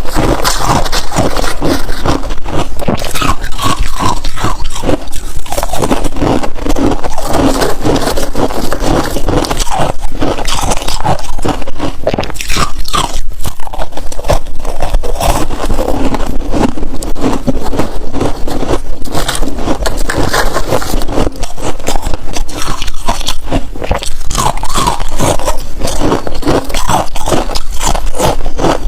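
Freezer frost being bitten and chewed up close: a dense run of crisp crunching and crackling, with some scraping.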